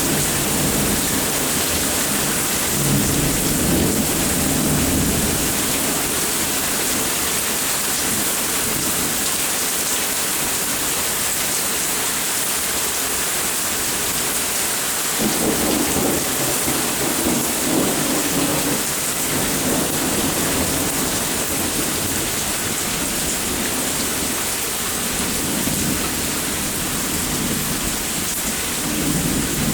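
Steady rain falling, with rolling thunder rumbling several times over it. The strongest rumble starts suddenly about halfway through and lasts a few seconds, and others swell up near the start and near the end.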